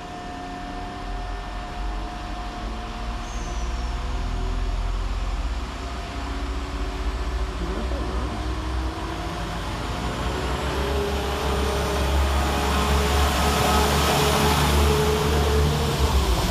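Two coupled Class 172 Turbostar diesel multiple units pulling away under power, their underfloor diesel engines running with a steady low rumble that grows louder as the train gets going.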